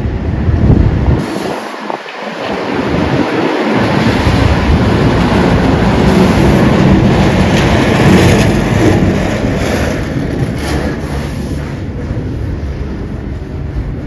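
A heavy vehicle passing on a slushy street: a steady rumble with tyre hiss that swells, peaks about eight seconds in, then fades.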